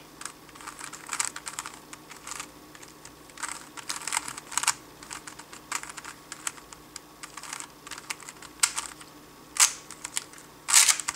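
Plastic 3x3 speedcube being turned fast with fingertricks: quick runs of light clicking as the layers snap round, with short pauses between runs and a few louder clacks near the end.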